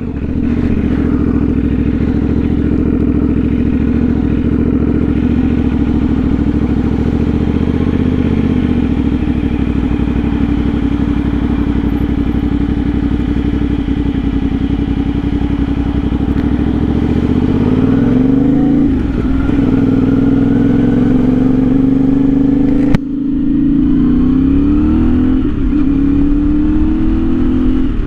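CFMOTO 450SS parallel-twin engine, breathing through an aftermarket slip-on exhaust, running at a steady pitch while riding. In the last third the revs climb and drop back twice through gear changes, and there is a single sharp click about 23 s in.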